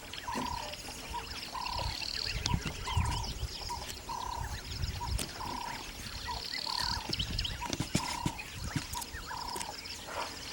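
A bird repeating a short, slightly falling call about once a second, with bursts of high trilling from other birds or insects twice. Low rumbling noise runs underneath.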